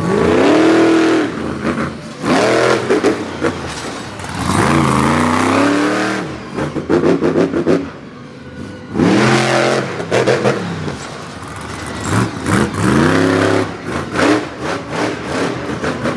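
Monster truck engine revving hard in repeated bursts, the pitch sweeping sharply up and dropping back about five or six times, with short sharp crackles between the revs.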